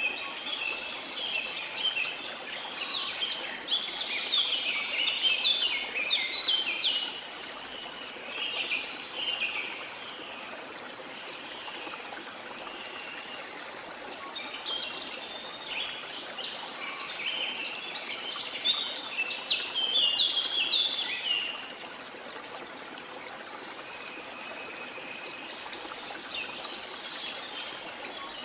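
Birds singing in dense spells of rapid chirps and trills, one spell at the start and another in the middle, with a few calls near the end, over the steady rush of a waterfall.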